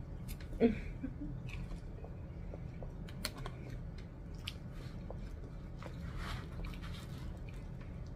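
Close mouth sounds of a person chewing a mouthful of cheese-covered fries, with scattered wet clicks and smacks. A short rustle comes about six seconds in.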